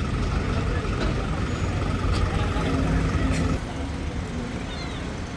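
An engine running steadily, a low rumble that drops a little in level about three and a half seconds in.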